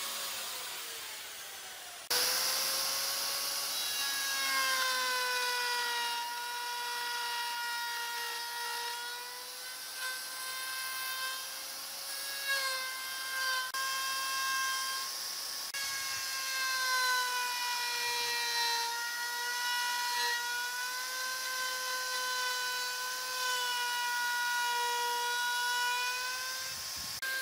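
Electric power tool running on wood, its motor whine sagging and recovering as it is pressed into the work. The sound gets suddenly louder about two seconds in.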